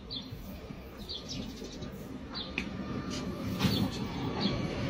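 A small bird chirping in short, high, downward-sliding notes about once a second, over a steady low outdoor rumble.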